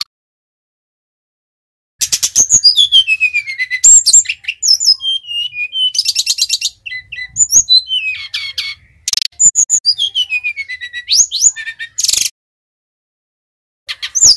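A sikatan rimba dada coklat (brown-chested jungle flycatcher) singing. Its long, varied phrase mixes clear whistles sliding down in pitch with fast, rattling trills. It starts about two seconds in, breaks off with a short pause near the end, then starts again.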